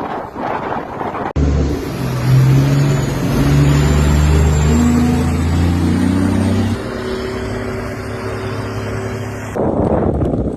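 Car engine revving hard, its pitch climbing in steps and then dropping back. Before and after it, between abrupt cuts, there is gusty wind noise on the microphone.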